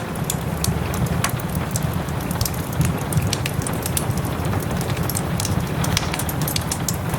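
Wood fire crackling, with many sharp pops, over the steady hiss of soft rain and a low rumble.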